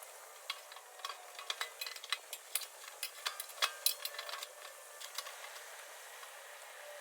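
Firewood crackling in a fire pit: a quick irregular run of sharp pops and snaps for about five seconds, then they die down to a faint hiss.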